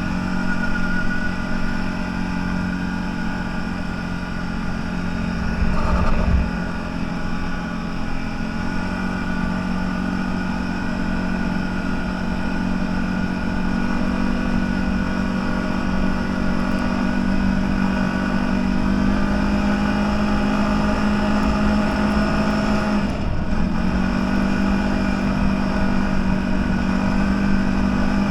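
Engine of a CFMoto 1000 off-road vehicle running steadily while driving, with a brief knock early on and a short dip in revs near the end before it picks up again.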